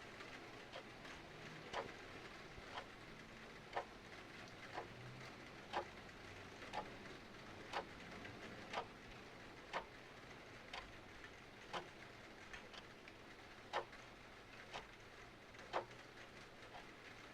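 Clock ticking about once a second in an alternating tick-tock, every other tick louder, over a steady soft hiss of rain.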